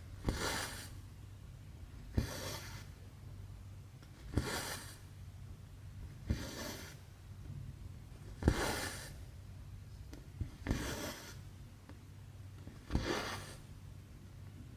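Cross-stitch needle pushed through stamped 11-count fabric with a small click, then the thread drawn through with a short rasping swish, repeating about every two seconds, seven times. A low steady hum runs underneath.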